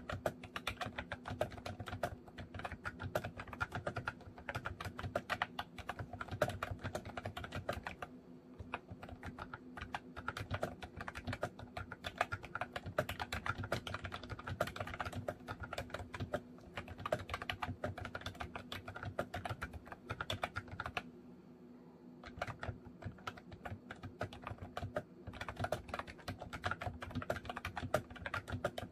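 Steady, fast typing on a MOFii Retro Style Candy keyboard: a dense run of key clicks with a short pause about three-quarters of the way through.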